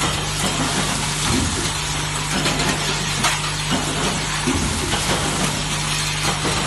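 Semi-automatic spot welding machine running, a steady low hum under continuous crackling sizzle with many small clicks.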